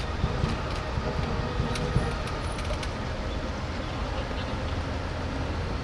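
Large police vehicles driving slowly past in a parade column, their engines making a steady low rumble, with a few scattered sharp clicks.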